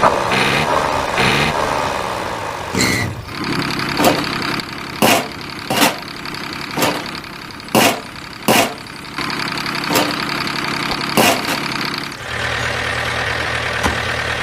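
Engine idling steadily, with a run of sharp knocks about once a second through the middle.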